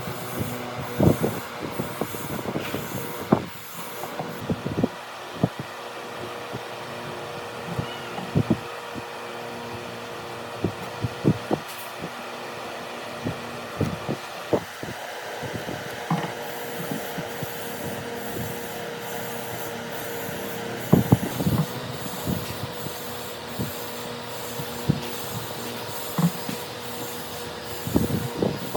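Woodworking in a workshop: irregular knocks and taps on wood over a steady machine hum, which grows stronger about halfway through.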